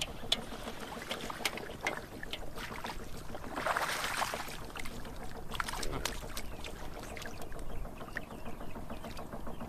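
Water splashing and sloshing, with many scattered small knocks and clicks and a louder rush of splashing about four seconds in.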